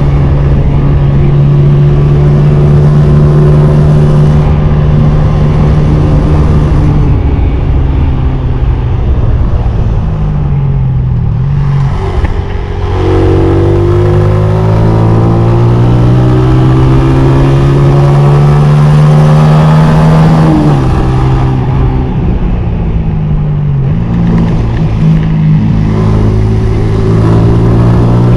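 Honda CG 125's single-cylinder four-stroke engine being ridden, its pitch falling away about ten seconds in as the throttle eases off, then climbing steadily, dropping again a little after twenty seconds and rising once more.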